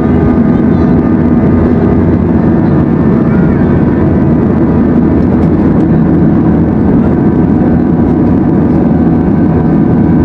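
Airbus A321 cabin noise: the jet engines and airflow make a loud, steady drone with several steady humming tones running through it.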